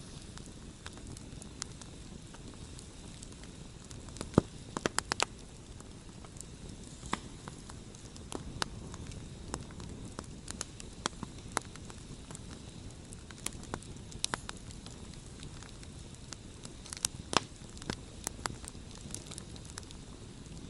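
Wood campfire burning: a steady low rush of flame with scattered sharp crackles and pops, bunched into quick clusters about four seconds in and again near the end.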